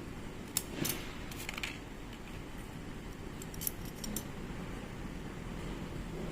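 Light metallic clicks and clinks of small metal parts or tools being handled: a few in the first two seconds and another short cluster about four seconds in, over a steady low background hum.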